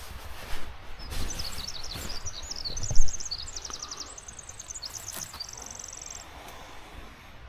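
A songbird singing a run of quick trilled and warbled phrases, over a steady low outdoor rumble. One sharp thump about three seconds in is the loudest sound.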